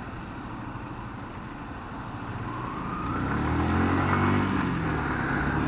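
On-board sound of a Yamaha FZ16's 153cc single-cylinder engine running with wind and traffic noise. About halfway in, an engine note rises and swells, loudest just past the middle, then eases a little near the end.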